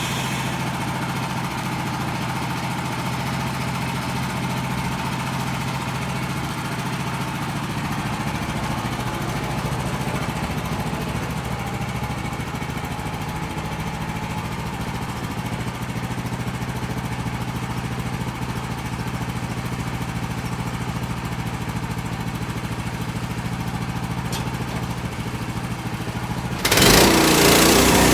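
Woodland Mills HM130 portable sawmill's small gasoline engine running steadily, then abruptly getting louder near the end.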